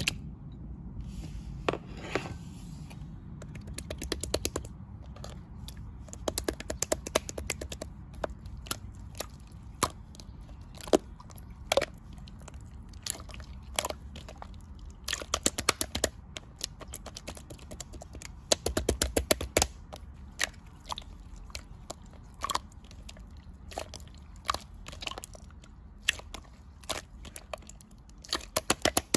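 Slime being squished and pressed by hand, giving sharp clicking and crackling pops, some single and some in quick runs of many clicks.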